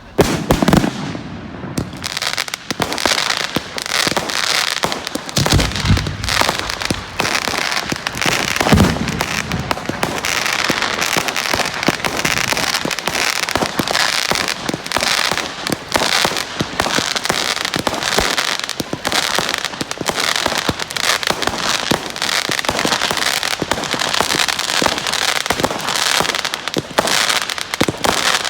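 Fireworks going off in a dense, continuous barrage of crackling bangs, with a few deeper booms in the first nine seconds.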